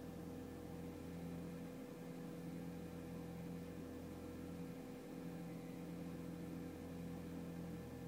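2002 Audi TT 225 quattro's 1.8-litre turbocharged four-cylinder idling high after a cold start, around 1500 rpm, with a low drone that swells and fades every second or two. The fast idle lasts over three minutes, a fault whose cause the owner doesn't know.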